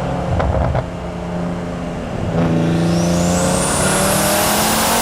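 Turbocharged performance car engine under hard acceleration: a steady engine note with a few short cracks under a second in, then louder from a little past two seconds, its pitch climbing, with a high whine rising steeply in pitch.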